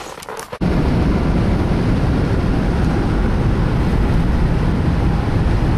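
Steady low rumble of road and engine noise inside a moving car, starting abruptly about half a second in.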